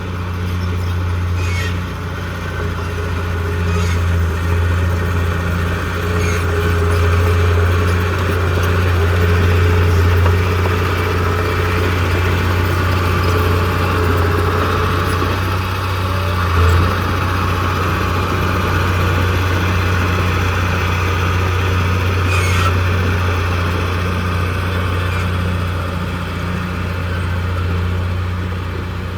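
Heavy diesel earth-moving machine engine running steadily with a deep, continuous drone, with a few faint clicks and a brief knock about 17 seconds in.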